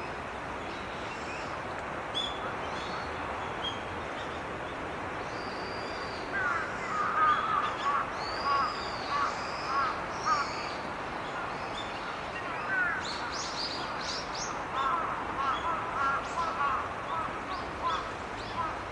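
Birds calling over a steady rush of flowing stream water. A run of harsh, rapid calls comes in the middle and again near the end, with thin, high chirps from small birds scattered throughout.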